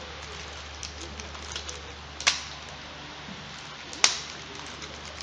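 Laptop parts handled during a hard drive swap: small scattered ticks and two sharp clicks, a little under two seconds apart.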